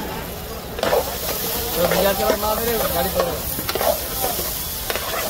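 Egg bhurji frying in a hot pan: a sizzle that swells about a second in, with a spatula scraping and tapping against the metal as the eggs are stirred.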